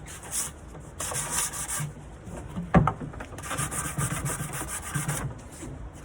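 Sandpaper rubbing back and forth on a nightstand in short spells of quick strokes, with one sharp knock a little before halfway through.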